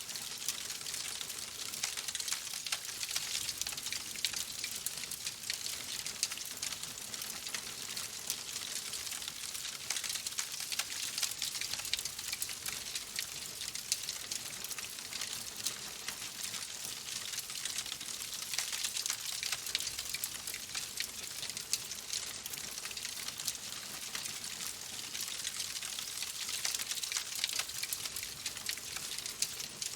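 Wood fire crackling in a fireplace: a dense, continuous crackle of small pops over a steady hiss.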